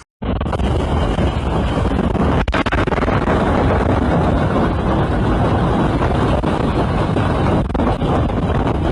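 Hailstorm: hail and heavy rain coming down hard in a dense, steady roar, with wind buffeting the microphone.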